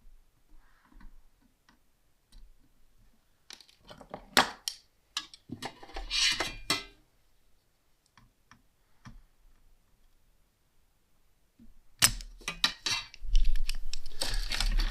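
Light clicks and scrapes of small metal tools on a computer power supply's circuit board as cut wires are pulled out of melted solder. The clicks come scattered, busier about four to seven seconds in, with louder clatter near the end.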